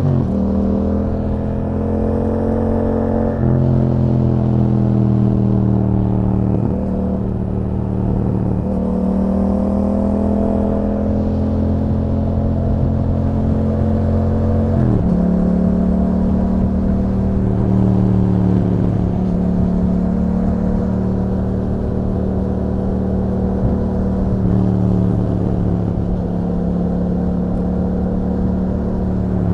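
2021 Yamaha MT-07's 689 cc parallel-twin engine through an Akrapovic exhaust with YAHOM dB killer, running under way. Its pitch slides up and down with the throttle and steps sharply at gear changes, a few seconds in and again about halfway through.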